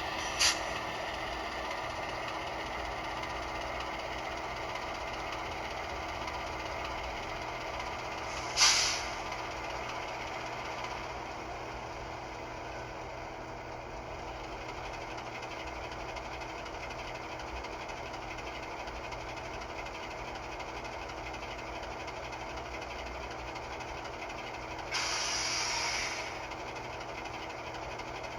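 HO scale model diesel locomotive's Soundtraxx Tsunami2 sound decoder playing the prime mover idling steadily through the model's small speaker. A short, sharp burst of escaping air comes about nine seconds in, and a longer hiss of air lasting about a second near the end.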